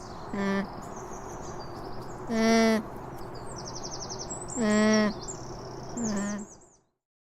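Alpaca humming: four short calls of steady pitch, spread a second or two apart, with birds chirping faintly in the background.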